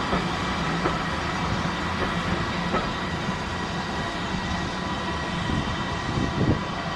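Steam train running on the rails: a steady rumble with a few sharp wheel clicks, the loudest about six and a half seconds in.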